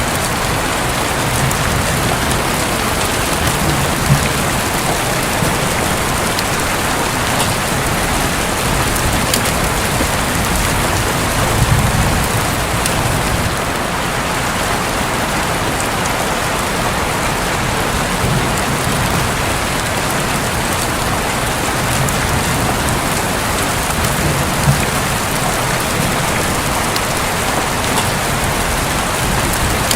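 Steady heavy rain falling on a roof, with a few single louder drops standing out.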